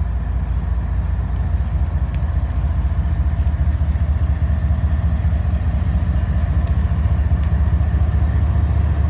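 Diesel freight locomotives running under power as a train pulls out, a steady deep engine rumble that grows slightly louder.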